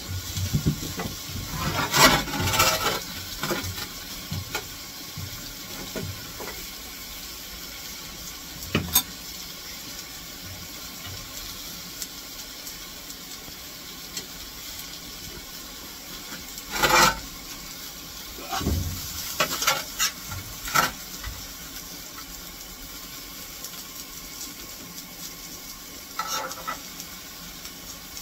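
Sliced vegetables sizzling on a hot steam locomotive fireman's shovel, with a few sharp scrapes and clinks of a fork against the shovel, the loudest about two seconds in and again near the middle.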